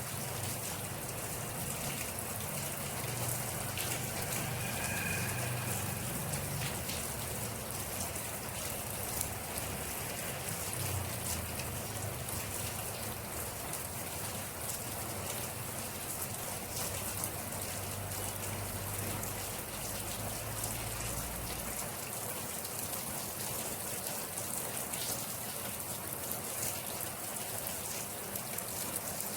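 Steady rain falling, with many sharp drop ticks over an even hiss. A low rumble sits underneath and drops away about three quarters of the way through.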